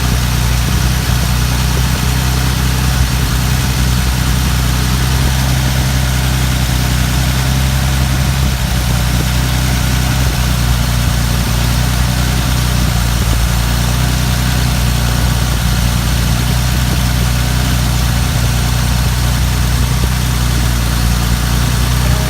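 1939 Plymouth pickup's flathead six-cylinder engine running steadily at idle, a low even drone with no revving.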